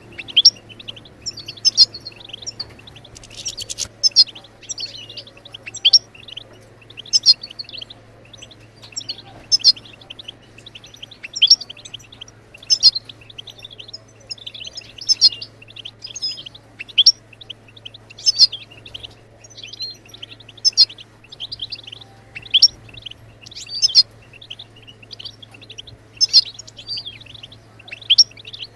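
European goldfinch calls: short bursts of quick, high twittering chirps, repeated about every second or so.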